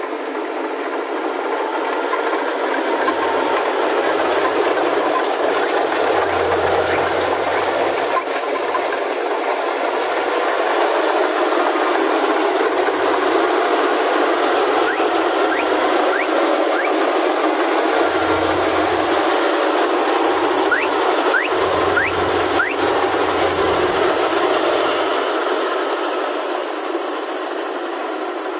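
Kubota rice combine harvester running steadily with a dense, even mechanical noise.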